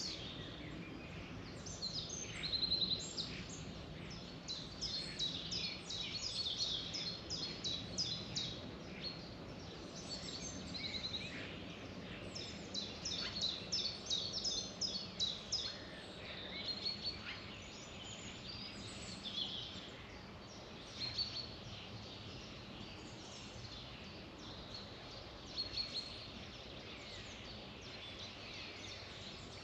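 Several songbirds singing and chirping in quick, overlapping high-pitched phrases and trills, busiest in the first half and thinning out later, over a steady low background hum.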